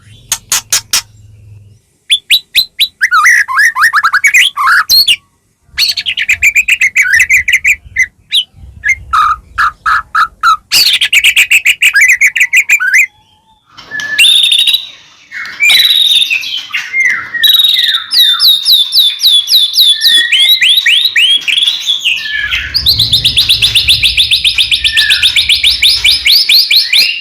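White-rumped shama (murai batu) singing loudly in full song: a varied run of rapid repeated chips, trills and sweeping whistles with short pauses, ending in a long, fast, even trill from about twenty-two seconds in.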